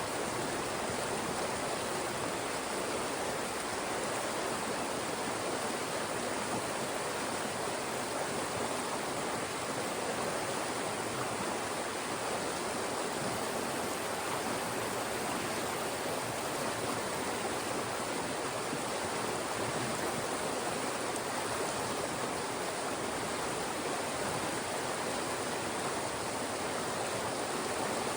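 Fast-moving mountain stream rushing steadily over and between rocks.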